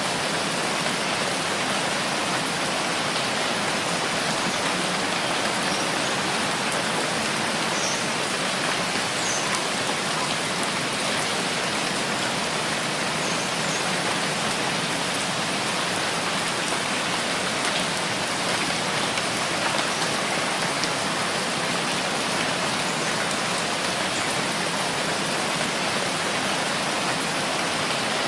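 Steady rainfall: an even, unbroken hiss with a few faint high droplet ticks.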